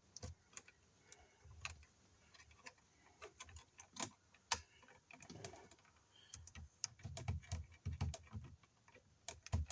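Faint, irregular small clicks and light rustling of stripped copper electrical wires being handled and twisted back together for a wire-nut splice.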